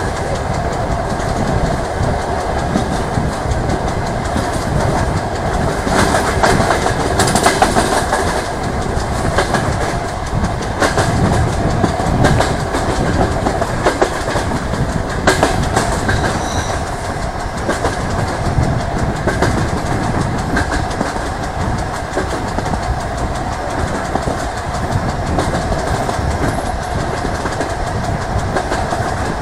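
DR1A diesel multiple unit running along the line, heard through an open carriage window. There is a steady rumble, with the wheels clacking over rail joints.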